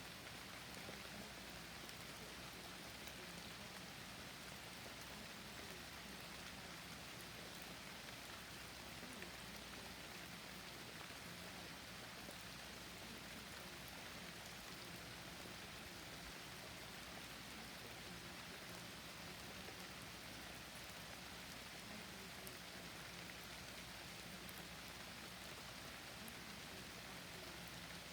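Steady forest rain: an even hiss of rainfall with scattered faint drop ticks, unchanging throughout.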